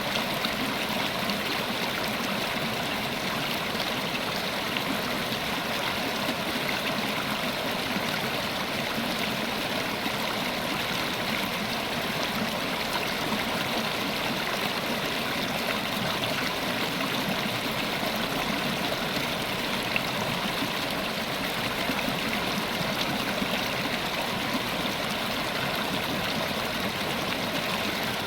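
River water flowing over rocks, a steady rushing and burbling with no change in level.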